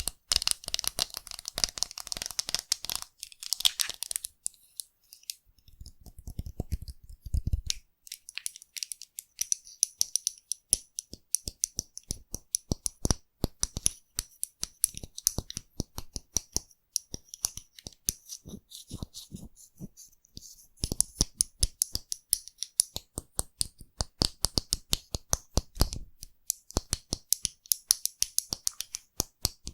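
Close-miked foam crackling and popping: a dense, irregular run of tiny sharp clicks, with a short low rumble about seven seconds in and another near the end.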